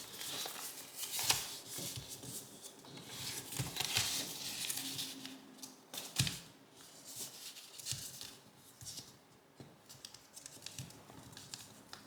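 Origami paper rustling and crinkling as it is folded by hand and its creases pressed down, with irregular sharp crackles.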